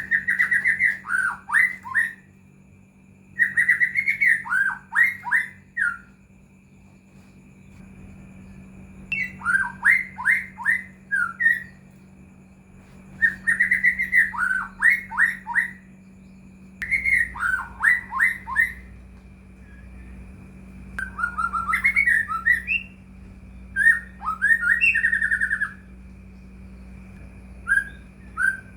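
White-rumped shama (murai batu) singing: about eight phrases of quick falling notes, each a second or two long, with short pauses between them.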